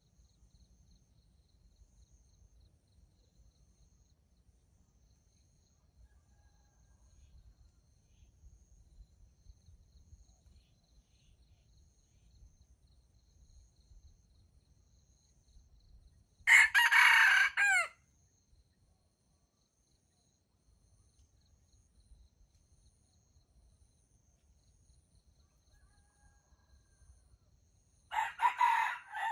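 Red junglefowl rooster crowing twice: one short crow about two-thirds of the way through and another near the end, cut off. Faint insects chirp steadily in the background.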